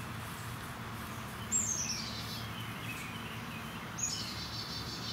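A songbird singing: two short phrases about two and a half seconds apart, each a quick run of high notes falling in pitch, over a faint steady low hum.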